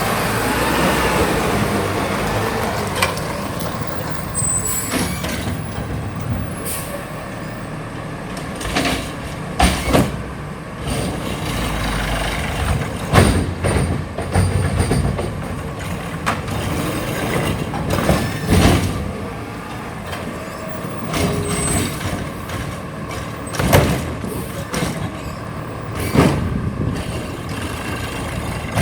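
Garbage truck's diesel engine running steadily, its pitch rising and falling briefly at the start. Irregular sharp clanks and bangs break over it many times.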